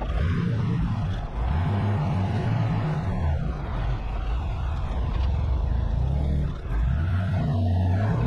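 Delivery truck's engine running while driving, with road noise; the engine note rises and falls as it works through the revs, with a brief drop in level near the end.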